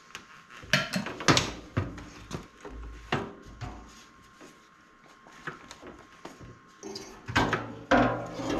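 Irregular knocks and clatters of hard objects being handled, clustered in a few bursts with quieter gaps between.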